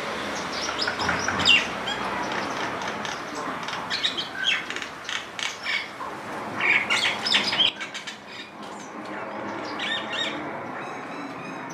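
Several backyard birds chirping and calling in short, sharp notes over a steady background hiss, which eases about eight seconds in. A fast run of high repeated notes comes near the end.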